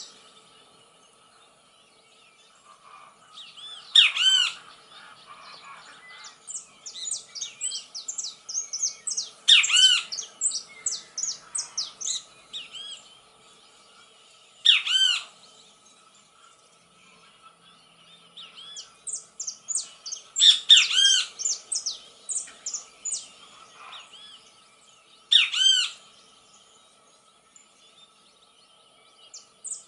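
Songbird singing: loud arched whistled notes about every five seconds, with runs of quick chirps between them.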